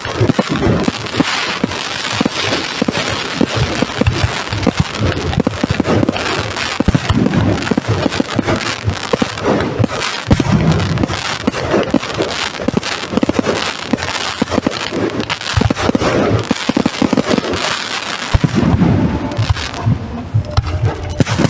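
Fireworks display: a dense, unbroken run of bangs and crackling bursts, the crackle thinning near the end.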